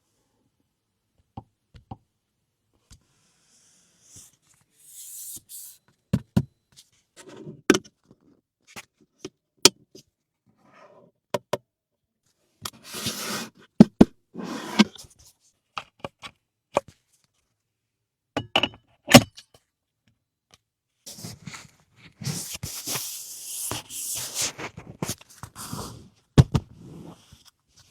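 Scattered sharp knocks and clicks, with a few stretches of rustling and scraping in between, the loudest knocks about a third and two thirds of the way through.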